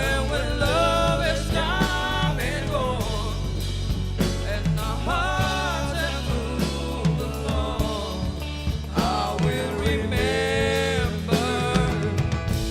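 Live rock band playing: steady bass and drums under a bending, wavering melodic lead line.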